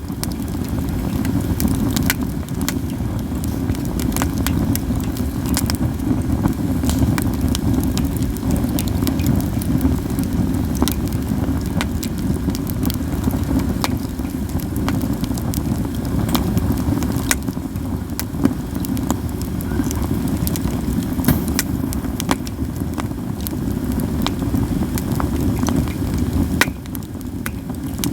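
Katsura wood fire crackling, with many sharp pops scattered throughout over a steady low rumble.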